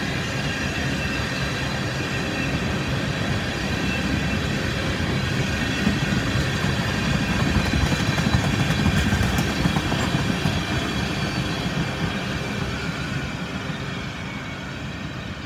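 Freight train tank cars rolling past, a steady rumble of steel wheels on rail with a thin high-pitched tone above it. The sound swells to its loudest about halfway through, then fades as the cars move away.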